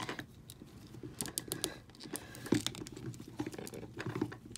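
Plastic action figure being handled up close: scattered light clicks, taps and small rustles as its parts are moved and fitted.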